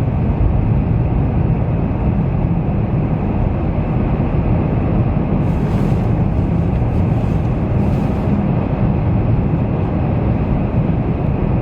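Steady road noise of a car driving on a highway, heard from inside the cabin: a deep, even rumble of tyres and engine, with two brief hisses about six and eight seconds in.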